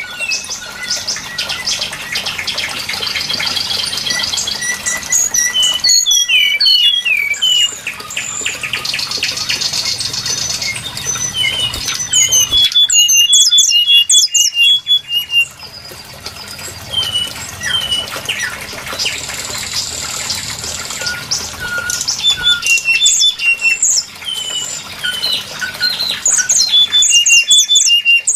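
Brown-chested jungle flycatcher calls played as a bird-lure recording: many short whistled notes and chirps, with several stretches of harsh, rapid chattering.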